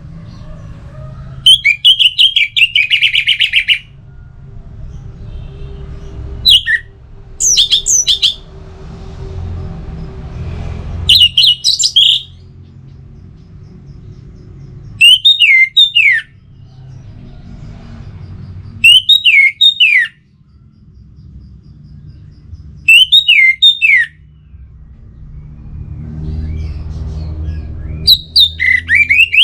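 Orange-headed thrush singing: short, loud phrases of high whistled notes with falling slurs, about eight of them, each a second or two long and separated by pauses of a few seconds. A low rumble runs underneath.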